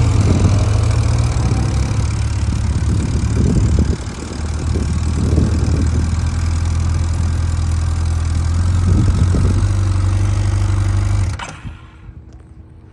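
Motorcycle engine running steadily at low speed, with a brief dip about four seconds in. It cuts off suddenly with a click near the end.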